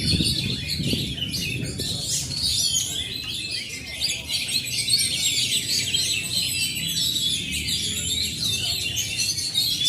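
Several oriental magpie-robins (kacer) singing over one another: a dense, unbroken chorus of fast, varied whistles and chirps, over a low background rumble.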